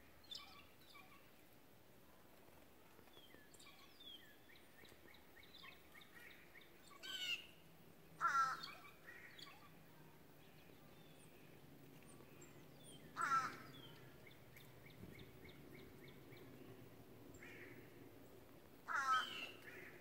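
Wild birds calling: four loud, harsh calls several seconds apart, with fainter chirping and trills from smaller birds between them.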